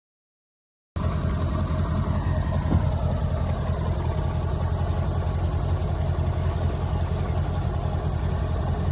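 A vehicle engine running steadily, cutting in abruptly about a second in after dead silence, with a faint tone sliding slowly down in pitch over the next few seconds.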